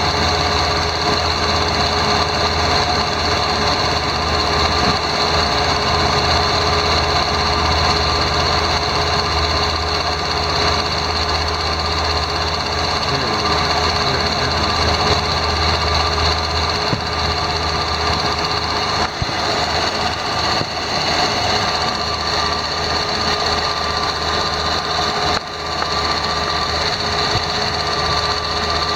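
2001 Ford Escape engine idling, with a rapid mechanical clicking from the A/C compressor clutch. The noise comes on only when the clutch engages; the owner thinks it is the A/C clutch, though it could be the belt tensioner.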